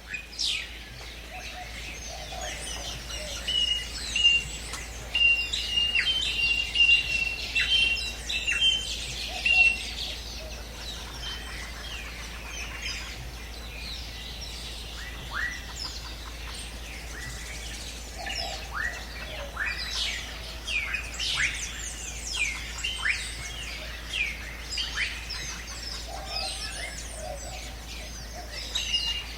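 A chorus of many birds chirping and calling, with quick down-sliding whistles and, during the first ten seconds or so, one bird repeating a short high note.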